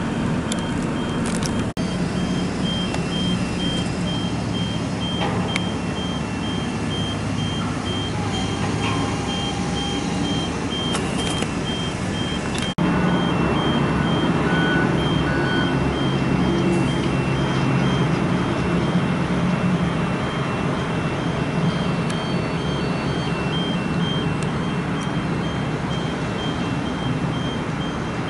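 Heavy construction machinery at work: a reversing alarm beeps steadily over the low rumble of engines. The rumble gets louder about 13 seconds in.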